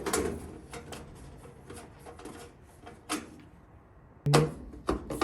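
Scattered clicks and light knocks of a screwdriver and screws being worked on a GE dryer's sheet-metal control panel, with one louder knock a little past four seconds in.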